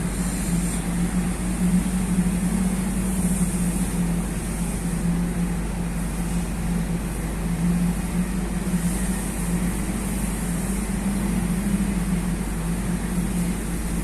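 Heavy diesel engine running steadily, a low even drone that swells slightly now and then, with some faint high hiss.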